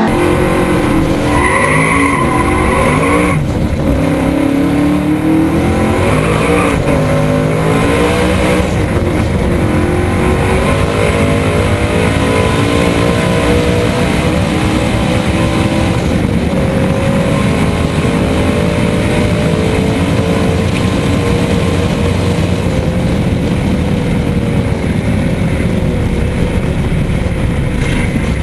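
Race car's engine heard from inside the cabin at full throttle, climbing in pitch through three quick gear changes in the first eight seconds and then rising slowly for several more seconds. About halfway through, the engine note starts to fall steadily as the car backs off and slows down.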